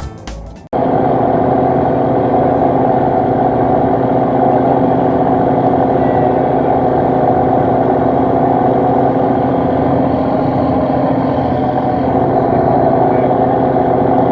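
A fishing boat's engine running steadily at a constant speed, a loud even drone that does not change. Background music cuts off abruptly under a second in.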